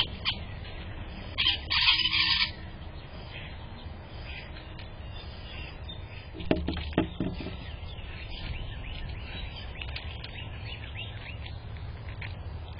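Small birds chirping with many short, high calls, with a louder burst about two seconds in. A few short knocks come about halfway through.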